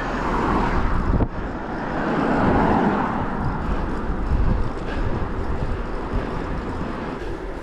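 Wind rushing over the microphone of a rider on a moving electric bike: a steady noise that swells and eases, with no clear motor tone.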